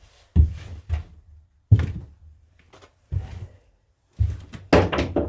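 Tools being handled while picking out a socket from a toolbox: a string of sharp knocks and clatters, about six, with the loudest burst of rattling near the end.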